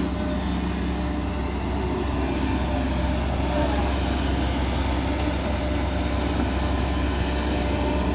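Kobelco SK140 hydraulic excavator's diesel engine running steadily under load while it digs.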